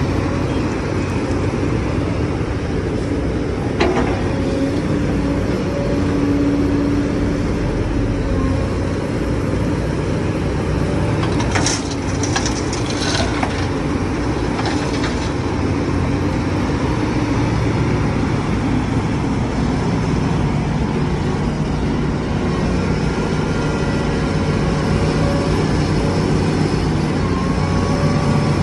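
Excavator diesel engine running steadily, with a few short hisses a little before the middle and a single click about four seconds in.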